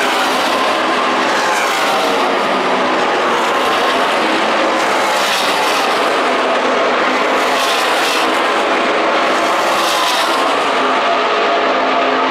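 A pack of NASCAR Truck Series V8 race trucks running at racing speed. Their engines make a dense, continuous racket, with louder swells every couple of seconds as trucks pass close by.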